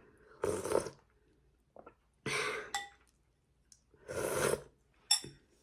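Three short slurps of hot, chili-spiced soup, each about half a second long and a second or more apart, then a light clink of a spoon on the bowl near the end.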